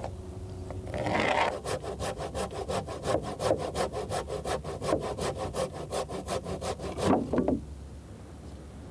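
Handsaw cutting through timber in quick, even strokes, about five a second. It ends with a couple of heavier strokes before stopping about seven seconds in.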